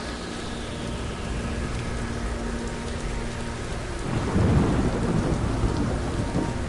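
Steady rain falling, with a rumble of thunder breaking in about four seconds in and rolling on to the end.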